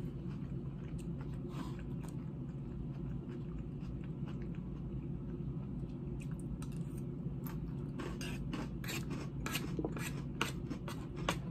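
A person chewing crunchy salad of romaine lettuce and croutons. It is soft and sparse at first, then becomes a quick run of crisp crunches from about two-thirds of the way in.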